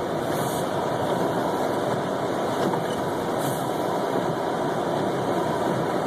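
Steady noise of a car driving slowly on a snow-covered road, heard from inside the cabin: engine and tyre noise at an even level, with two faint brief hisses.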